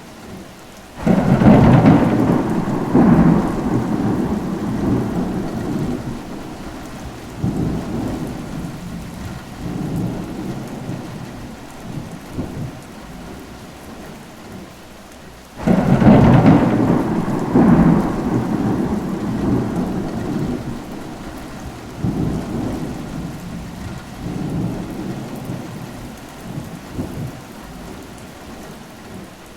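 Steady rain with two claps of thunder about fifteen seconds apart, one about a second in and one about halfway through. Each thunderclap rolls on in several swells and dies away over many seconds.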